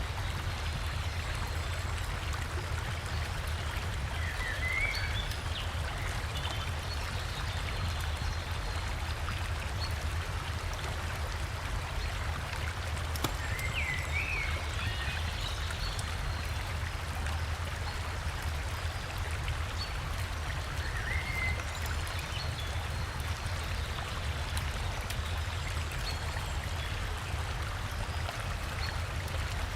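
Steady rushing of a forest river and small waterfall with a low rumble underneath, and a few short bird chirps spaced several seconds apart.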